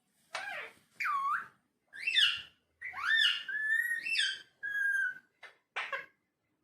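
Indian ringneck parakeet vocalizing: a string of about seven short whistled calls and chatter with swooping pitch, a couple of them held a little longer.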